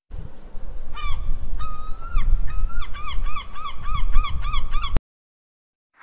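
A gull giving its long call: a few drawn-out, honking notes, then a quick series of short notes about four a second, over a steady low rumble. It cuts off suddenly about a second before the end.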